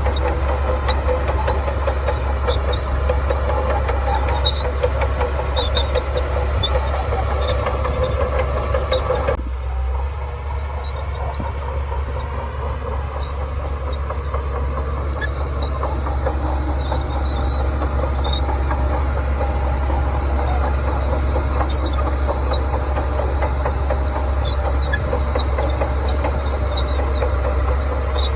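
Heavy diesel engine of earthmoving machinery running steadily with a deep constant hum. About a third of the way in, the higher part of the sound drops away suddenly and the running continues a little quieter.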